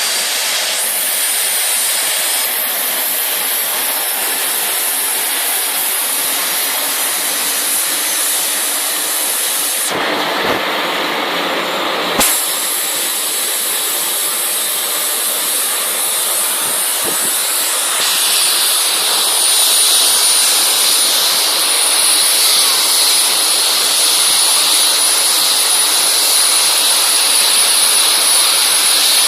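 Helicopter turbine engines running steadily while warming up on the ground before takeoff: a high-pitched turbine whine over a rushing hiss, growing a little louder about two-thirds of the way in.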